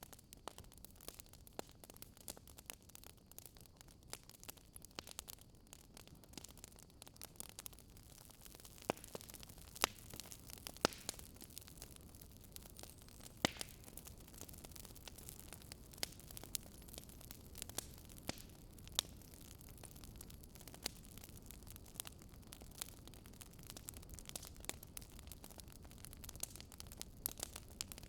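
Wood fire crackling in a fireplace: scattered sharp pops and snaps, a few louder ones around ten and thirteen seconds in, over a soft low hiss of burning.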